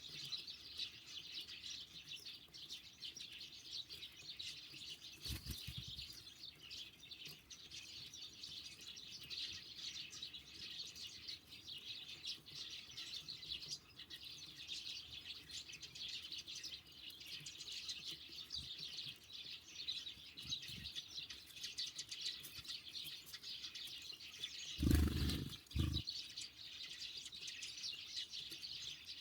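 Small songbirds at a winter feeder chirping constantly in a dense, overlapping chatter. A short close thump and rustle comes about five seconds in, and a louder one near the end, the loudest sound here.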